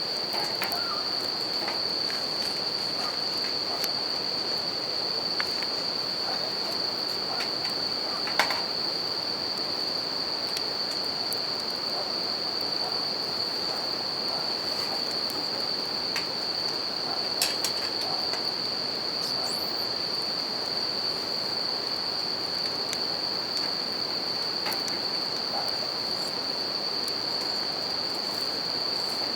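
Bell crickets (suzumushi) singing in a continuous high ring over the steady rush of a river, with scattered pops and crackles from a campfire, the sharpest about 8 seconds in and again around 17 seconds.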